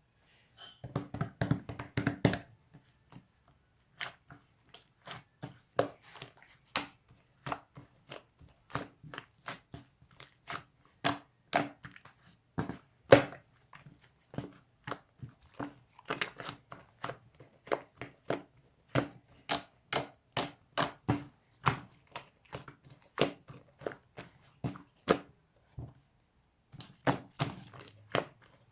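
Large blue slime being worked by hand, giving sharp sticky pops and clicks as air pockets burst, irregular, about one or two a second, with a quick flurry of pops near the start.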